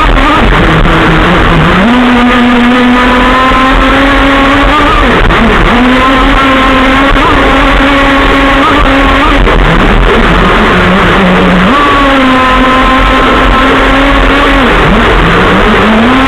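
Modified Zenoah two-stroke petrol engine of an RC model running at part throttle while taxiing. Its pitch steps up and drops back several times as the throttle is opened and closed: about two seconds in, near the middle, and again near the end.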